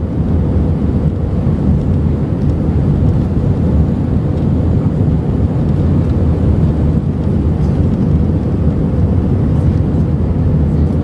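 Airliner jet noise: a steady low rumble of engines and rushing air, unchanging throughout.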